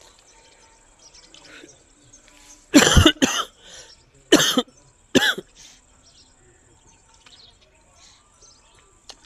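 A bird giving four loud, harsh calls in two pairs, each call dropping in pitch, about three seconds in.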